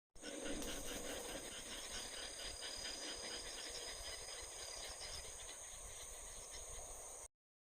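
Insects chirping in a dense chorus: a fast, even pulsing with a steady high-pitched trill above it. The sound cuts in abruptly just after the start and cuts off abruptly near the end.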